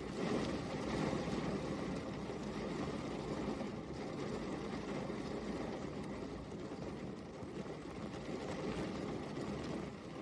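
Steady rain falling, an even rushing hiss of raindrops with no break.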